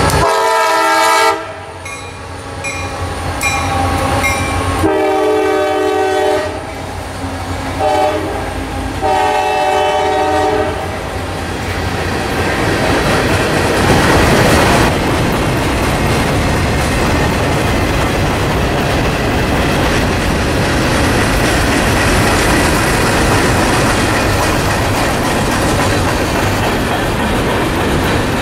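Freight locomotive horn sounding a series of blasts, long and short, over the first ten seconds or so as the locomotive consist passes close by. It then gives way to a steady rumble and clickety-clack of freight cars rolling past on jointed rail.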